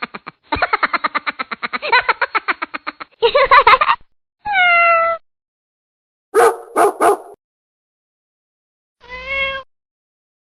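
Cat vocalising: a long run of rapid pulses, then separate meows, one falling in pitch, three short cries in quick succession, and a final meow near the end.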